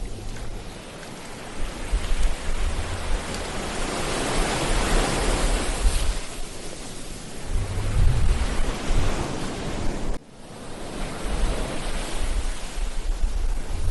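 Ocean surf breaking and washing up the beach, the noise swelling and ebbing over several seconds, with wind buffeting the microphone in low rumbles.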